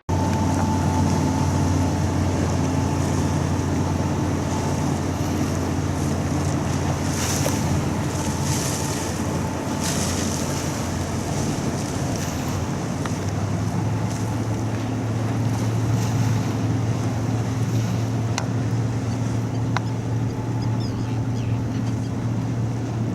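Jet airliner engines at takeoff power: a steady low drone with a hum that shifts slightly higher about halfway through.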